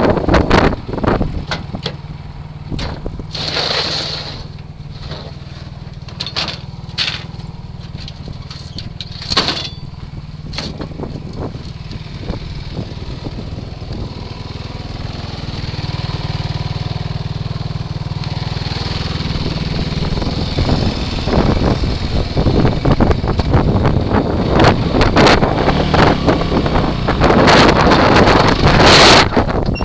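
Kawasaki KFX ATV engine running while being ridden, with wind buffeting the microphone in gusts. The engine gets louder from about halfway through, and heavy wind rushes come at the start and again near the end.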